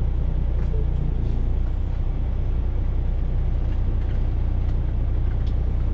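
Semi truck's diesel engine running steadily with a low, even rumble.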